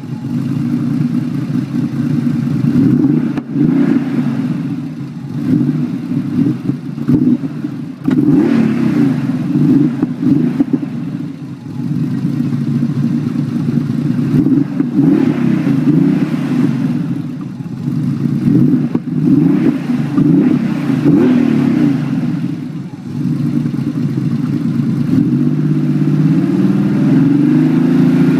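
Porsche 964's air-cooled flat-six running through an aftermarket dual-outlet exhaust, revved up and down in repeated throttle blips between steadier running. The pitch climbs again near the end.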